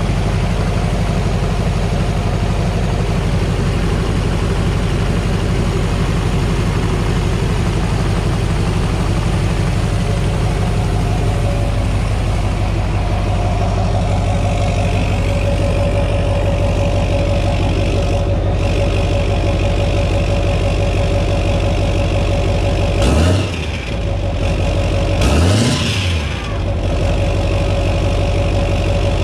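Duramax 6.6 L turbo-diesel V8 idling steadily just after its first start following a rebuild, blipped twice near the end with quick revs that rise and fall.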